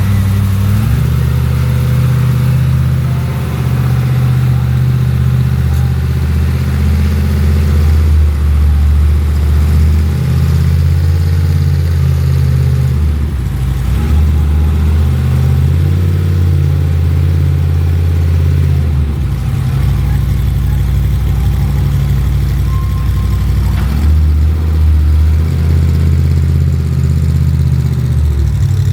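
A vehicle engine running loud with a low drone, its pitch jumping up and down every few seconds.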